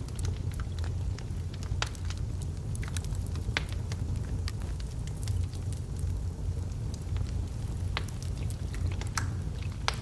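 Burning logs in a fireplace crackling: sharp, irregular pops and snaps over a steady low rumble of the flames.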